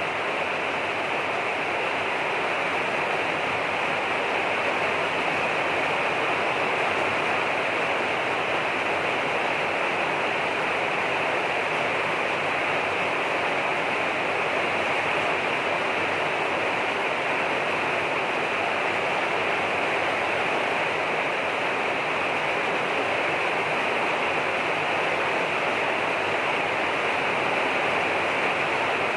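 Steady rain falling: an even hiss that holds without change throughout, with no single drops or other sounds standing out.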